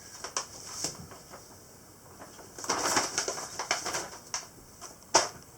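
Paper rustling and crinkling in irregular bursts as a wrapped package is opened, with one sharp click about five seconds in.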